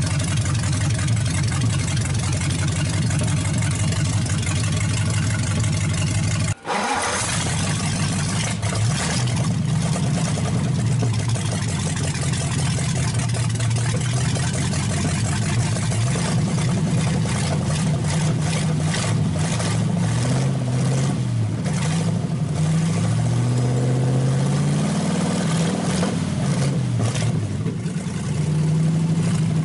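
V8 engine in a hot-rod chassis running on open headers, with a brief break about six and a half seconds in. In the second half its speed rises and falls as the carburetor is adjusted by hand.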